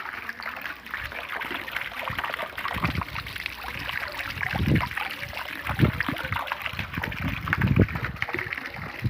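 Rainwater running and trickling in a steady, crackly stream, with a few dull low thumps in the middle.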